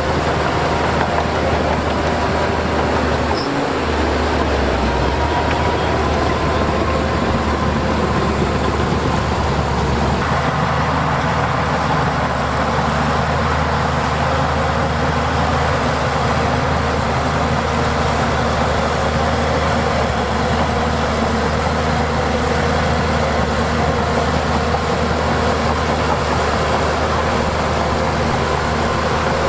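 Heavy diesel engine of earthmoving machinery running steadily, with an abrupt change in its sound about ten seconds in.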